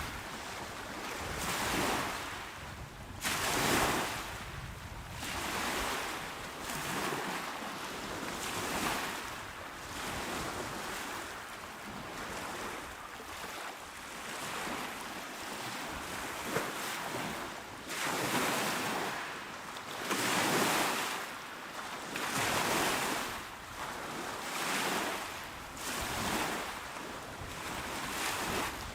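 Small, calm sea waves breaking and washing up the shore one after another, a rushing hiss that swells and fades every couple of seconds.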